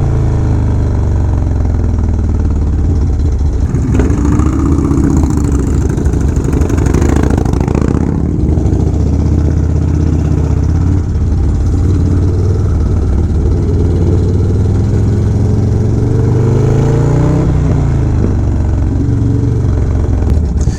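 Harley-Davidson V-twin motorcycle engine running while riding, heard up close, its pitch rising and falling twice as it accelerates and backs off.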